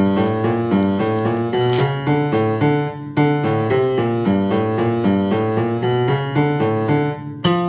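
Piano playing an instrumental interlude of a carol medley with no singing: chords and melody notes in a steady rhythm, pausing briefly about three seconds in and again near the end.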